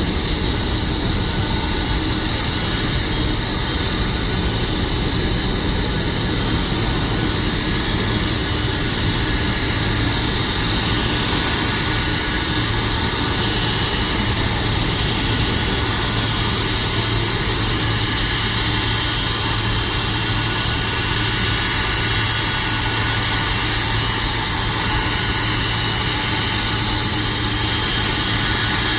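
Boeing 747-400 jet engines running at low power as the airliner docks at the gate: a steady rumble with a constant high whine over it.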